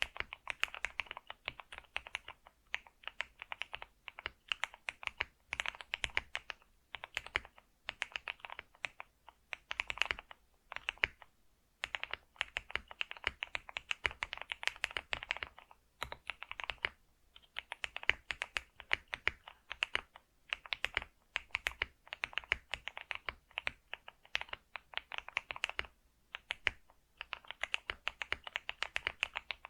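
Computer keyboard being typed on: fast runs of key clicks in bursts of a few seconds, with short pauses between them.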